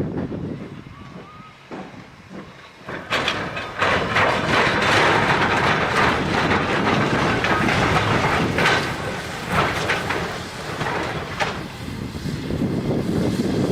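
A train passing at close range: fairly quiet at first, then loud from about three seconds in, a dense rushing noise with repeated sharp knocks from the wheels over the track.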